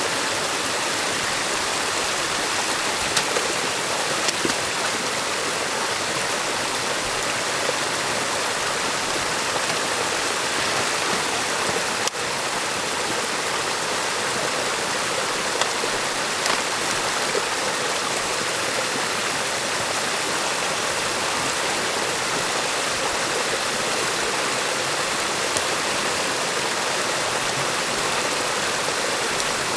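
Stream water rushing steadily, in the noisy way of water pouring over or through a beaver dam, with a few faint clicks now and then.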